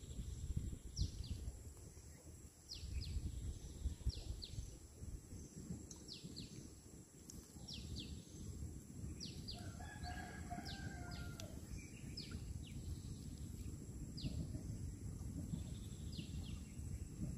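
A small bird chirping over and over, short high chirps about once a second, over a low steady rumble of outdoor noise.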